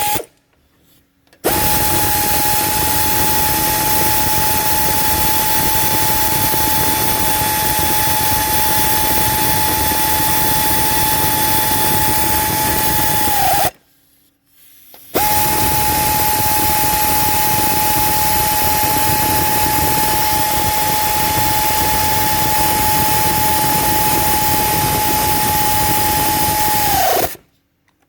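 A power tool running in two long runs of about twelve seconds each, a steady whine over a loud rushing noise. Each run ends with the whine dropping briefly in pitch as the tool is released.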